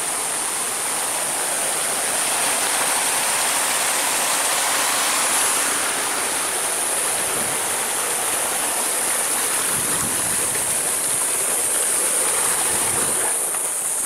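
Water from a man-made waterfall rushing and splashing steadily, with a steady high-pitched hiss above it.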